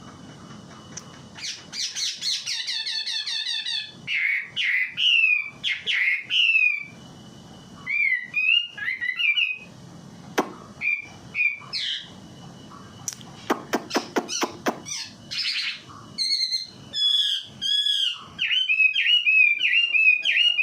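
A wambi songbird in full song ('gacor'), giving a continuous, varied string of whistled and warbled phrases that sweep up and down, with a rapid rattling run about two thirds of the way through.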